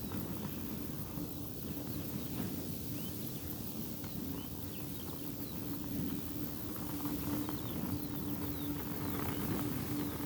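Thin silk veil flapping and fluttering noisily in strong wind, with irregular small snaps, over a steady wind rumble on the microphone and a steady low hum.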